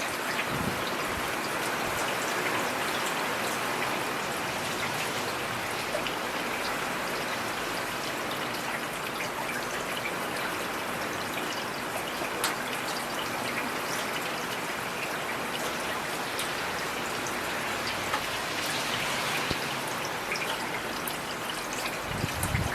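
Heavy rain falling steadily, with many individual drops ticking through the hiss. A brief low rumble comes near the end.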